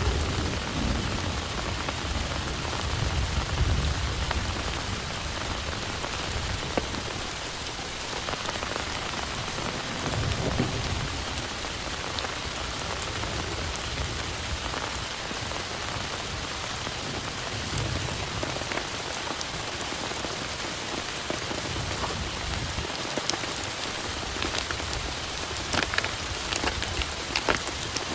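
Heavy rain falling steadily, with low rumbles of thunder near the start and again partway through, and a few sharp taps of drops near the end.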